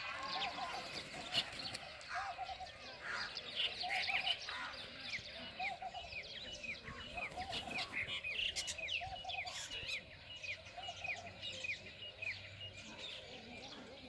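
Several small birds chirping and calling together. One bird repeats a short warbled call about once a second, and through the middle a run of quick falling chirps comes about two or three a second.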